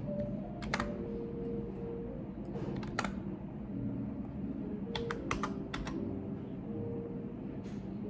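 Computer keyboard being typed on in a few scattered keystrokes: single clicks about one and three seconds in, a quick cluster of four around five seconds, and one more near the end.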